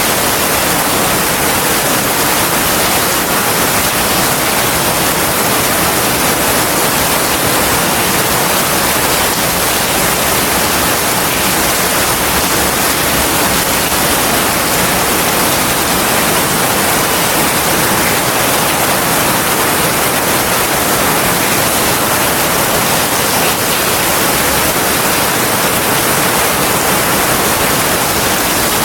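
Heavy rain falling steadily: a loud, dense, even hiss.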